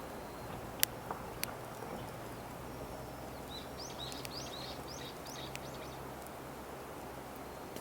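Wood campfire crackling with a few sharp pops in the first two seconds, while a bird in the background calls a quick run of about eight short, rising, high notes through the middle.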